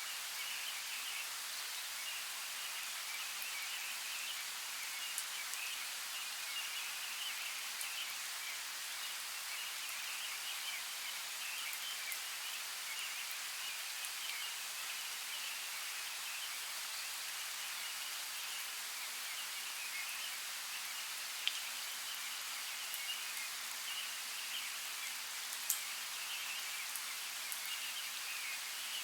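Steady outdoor nature ambience: an even hiss with a busy, high-pitched flickering chatter running through it, and a few sharp ticks, two of them more prominent in the second half.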